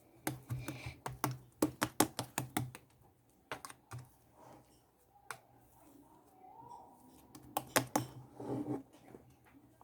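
Quick, irregular runs of sharp clicks and taps: a dense flurry in the first three seconds and another near the end, with a few single clicks between.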